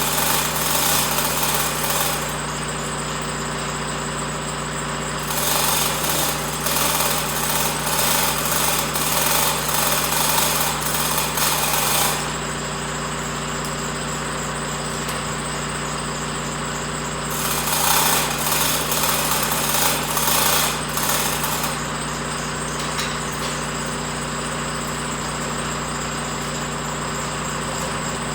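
An engine running steadily throughout, with three long stretches of harsh, rapidly rattling mechanical noise over it: one at the start, a longer one from about five to twelve seconds in, and another from about seventeen to twenty-two seconds in.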